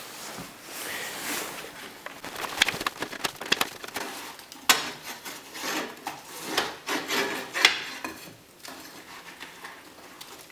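Handling noises: irregular scraping and rubbing broken by sharp clicks and knocks, typical of hands and tools working on a hornet nest and chimney.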